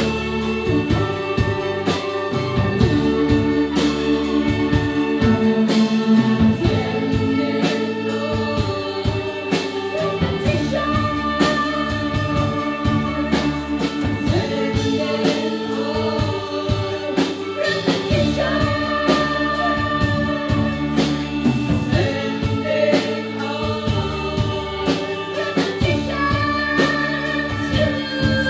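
Live band performing a song: sustained instrumental chords that shift every second or two over a steady percussive beat, with singing voices on top.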